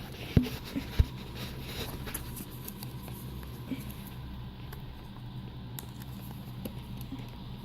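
Hands handling and picking at DVD packaging: two sharp knocks in the first second, then light scratching and ticking over a steady low hum.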